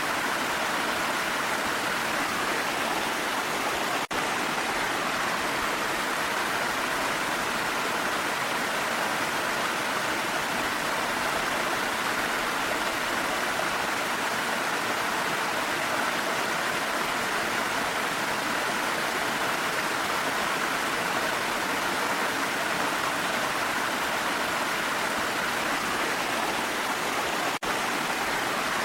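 Steady rushing of a waterfall, an even noise of falling water, broken by two momentary dips in level, one about four seconds in and one near the end.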